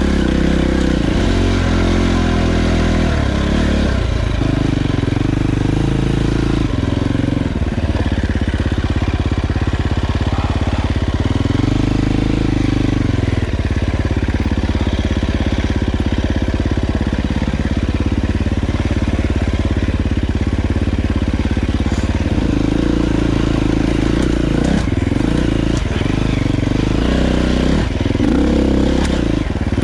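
Dirt bike engine running while riding, its pitch rising and falling several times as the rider works the throttle and gears.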